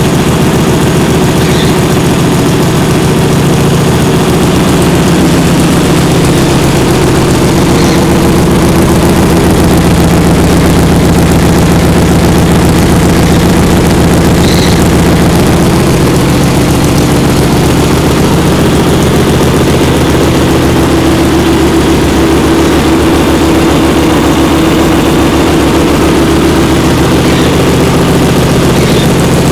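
Kasinski GTR 250 motorcycle's V-twin engine idling steadily and loud through an aftermarket sport exhaust.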